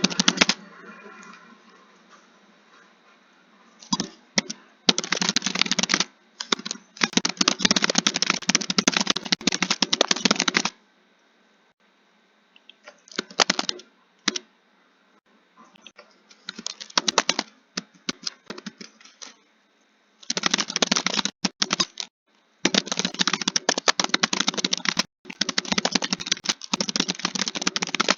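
Computer keyboard being typed on in fast runs of key clicks, broken by short pauses of a second or two.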